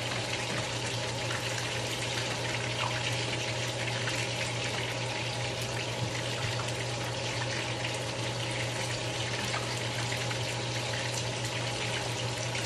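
Shrimp and spiralized zucchini frying in hot grease in a skillet: a steady sizzle full of small crackles, over a low steady hum.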